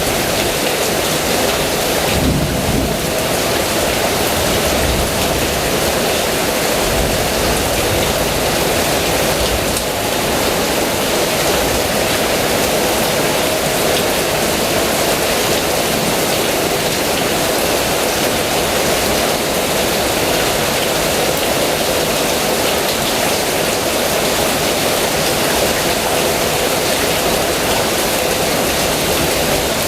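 Heavy rain falling steadily in a dense, even hiss, with a low rumble of thunder a couple of seconds in.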